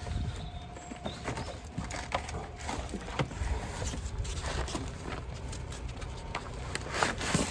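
Hand-tool work on an old truck: scattered light clicks and knocks of metal being worked at.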